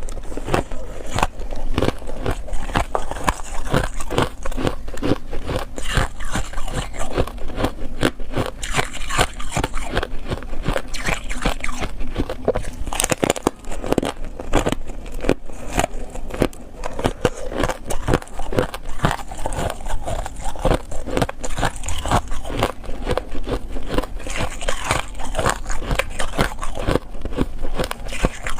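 Ice being bitten and chewed close to the microphone: a dense, continuous run of crunching and cracking with no pauses.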